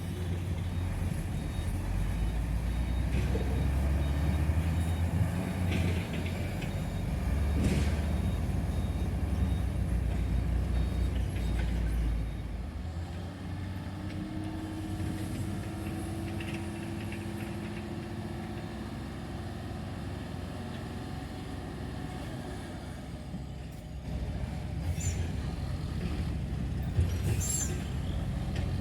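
Heavy diesel engines of a dump truck and bulldozer running, louder for the first twelve seconds, then easing before picking up again. A brief high squeal comes near the end.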